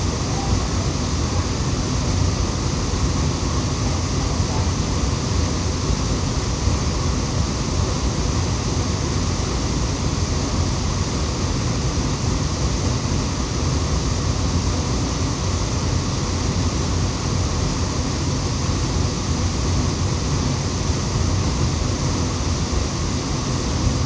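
Waterfall rushing: a steady, unbroken roar of falling water, even in level throughout.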